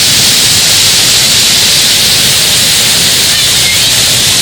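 Loud, steady rush of water pouring over the cascades of a mountain-brook waterfall.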